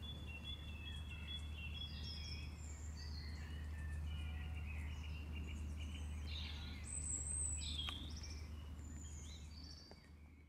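Several birds singing and chirping over a steady low rumble, fading out near the end.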